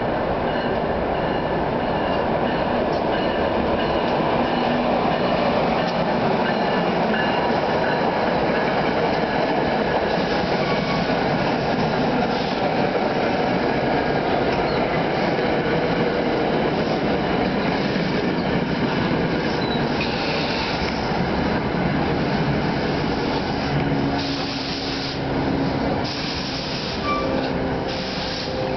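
New Jersey Transit train, an ALP-44 electric locomotive with Comet coaches, rolling past while pulling into the station to stop: a steady rumble of wheels on rail with thin high tones over it. A few short bursts of high hiss come in the last third.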